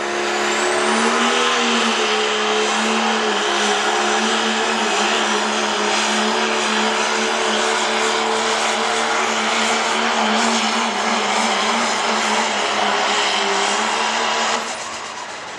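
Turbocharged diesel pickup truck making a pull at full throttle: the engine is held at high, steady revs while a high whistle rises over the first second or so. The engine lets off about fourteen and a half seconds in, at the end of the run.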